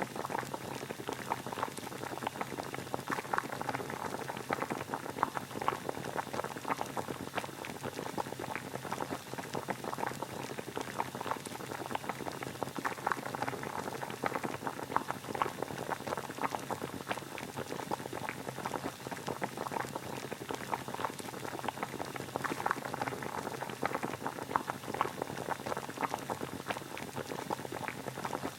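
Water boiling: a steady, dense bubbling that goes on without a break.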